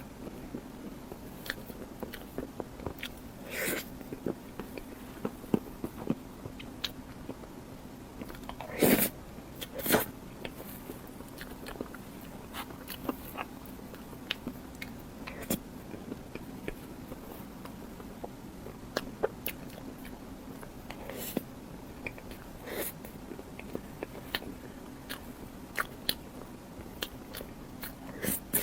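Close-up eating sounds: bites and chewing, with wet mouth clicks and a few louder crunches about 9 and 10 seconds in, over a faint steady hum.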